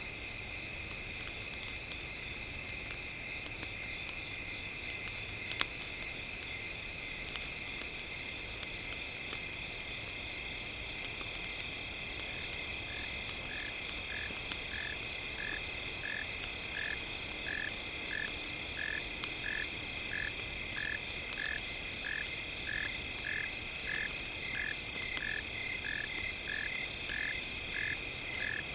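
Campfire crackling over a steady, high insect chorus. About twelve seconds in, a short call starts repeating about twice a second.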